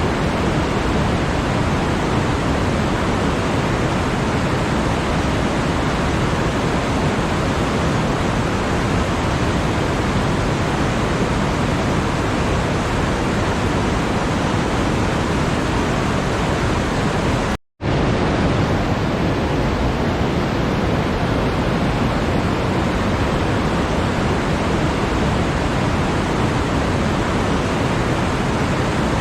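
Steady, even rushing noise spread across all pitches, with no tone or rhythm in it; it cuts out to silence for a split second about eighteen seconds in and resumes unchanged.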